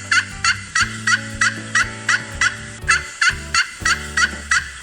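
Turkey gobbling: two runs of quick, evenly repeated gobble notes, about three a second, with a short break between them.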